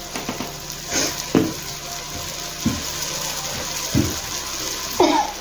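Onion-tomato masala frying in a nonstick pan, a steady sizzling hiss, with a few short low knocks or sounds in between.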